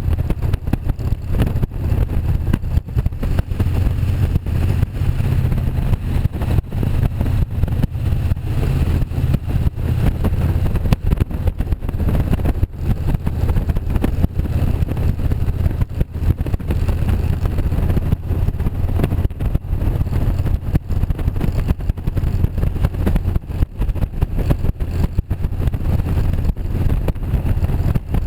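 Motorcycle engine running under way, a steady deep rumble that shifts slightly in pitch about nine seconds in.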